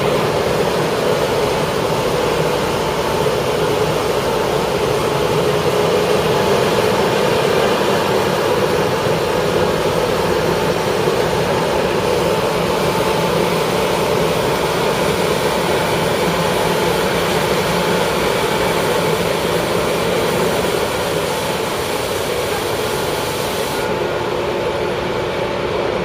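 Heavy road-paving machinery running steadily with a continuous engine drone.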